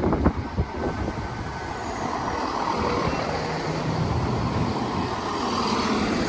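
Diesel passenger train running into the station, its engine and wheel noise building gradually.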